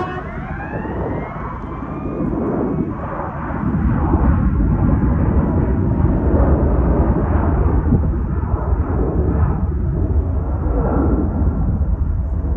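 Jet airliner's engines passing close. A whine of engine tones bends in pitch over the first two seconds, then a heavy low rumble grows louder about three and a half seconds in and holds steady.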